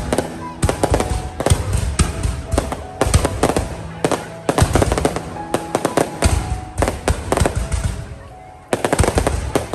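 Fireworks going off in rapid volleys of sharp cracks and bangs, with a short lull before another burst near the end. Music plays underneath.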